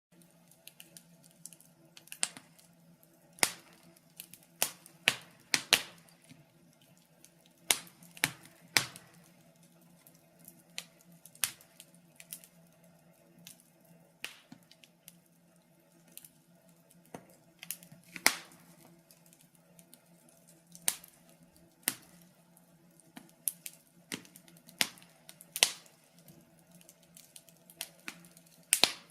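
Wood fire crackling in a fireplace: irregular sharp pops and snaps, one to several every couple of seconds, over a faint steady hum.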